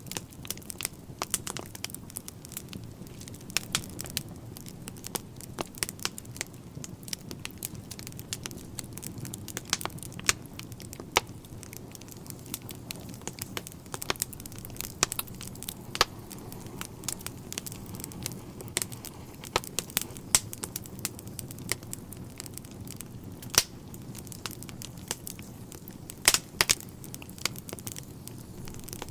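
Wood fire burning in a fireplace: a steady low rush of flames with frequent irregular sharp crackles and pops of burning logs, a few louder snaps among them.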